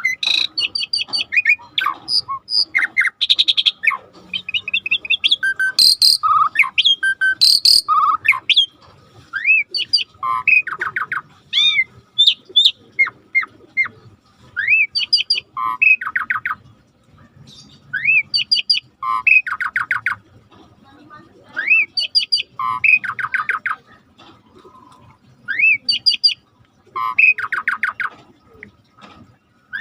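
Starling singing: varied chattering and squawky notes at first, then a repeated phrase of an arching whistle followed by a fast rattling trill, coming roughly every three seconds.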